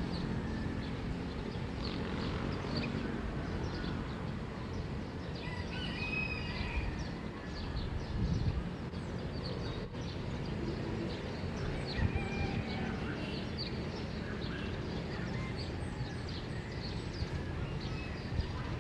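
Morning birds chirping in many short calls throughout, with a few longer calls now and then, over a steady low background rumble.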